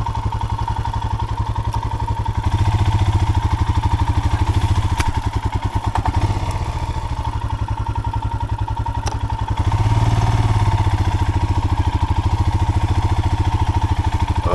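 Royal Enfield Himalayan's 411 cc single-cylinder engine running at low revs, the throttle opened up twice for a couple of seconds each as the motorcycle labours through deep mud. A few light knocks over the engine.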